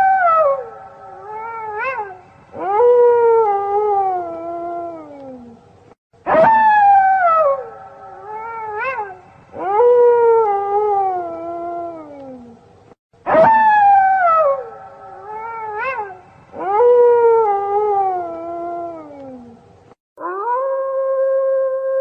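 Wolves howling. The same sequence repeats three times, about every seven seconds: a loud high howl falling in pitch, a short rising yip, then a long howl sliding lower. Near the end comes a steadier, level howl.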